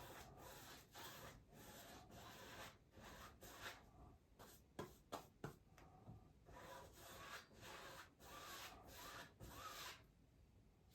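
Faint rubbing of a paintbrush working acrylic paint, a run of short scrubbing strokes with a few sharper scrapes about five seconds in.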